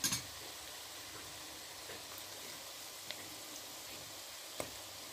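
Onions, curry leaves and whole spices sizzling steadily in hot oil and ghee in an aluminium pot. A light click at the start and another near the end.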